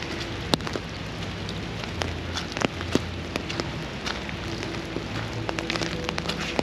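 Steady rain hiss with many sharp, irregular taps of individual drops landing close by.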